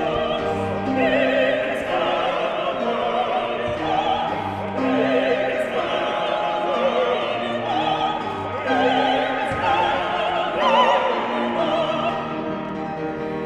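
Classically trained voices singing opera: sustained notes with wide vibrato over instrumental accompaniment.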